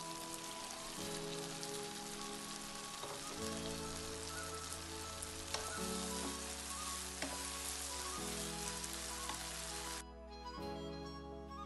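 Okra and tomato-onion masala sizzling in a frying pan as it is stirred, with a few knocks of the wooden spatula. The sizzling cuts off suddenly near the end, leaving soft background music that runs under it throughout.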